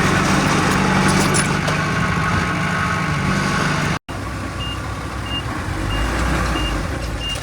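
Heavy earthmoving machine's diesel engine running steadily. After an abrupt cut about four seconds in, an engine runs under a backup alarm beeping at a steady pace, about one short beep every 0.7 seconds, as a machine reverses.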